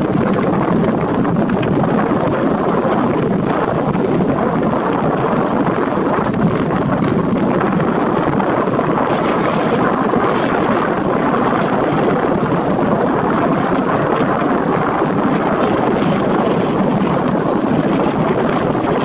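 Wind blowing over the microphone, a steady rushing noise that does not let up.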